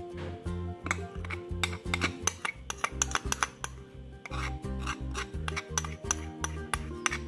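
Background music with a steady bass line, over repeated clinks and scrapes of a spoon against a bowl and mug as thick batter is scraped out and poured in.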